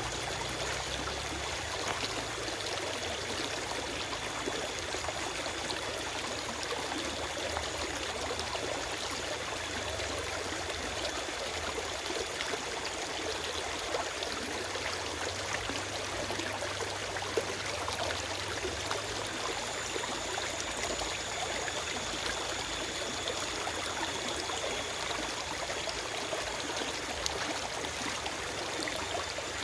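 Forest stream running over rocks: a steady rush of flowing water with small splashes and trickles, and no birds.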